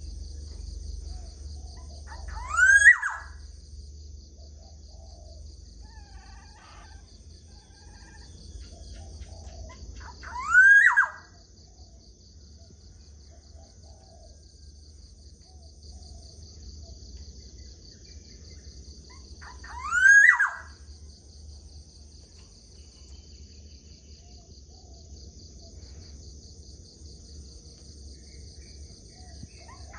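Black-naped oriole (kepodang) calling three times, eight to ten seconds apart, each a short loud note that rises and then falls in pitch. A steady high-pitched insect drone and a low hum run underneath.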